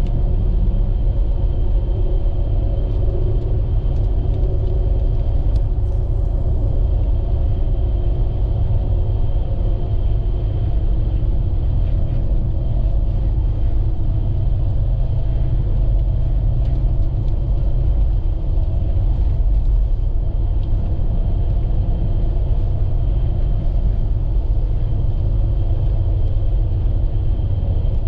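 Steady low rumble of engine and tyre noise inside a vehicle's cabin while driving, with a faint steady high tone over it.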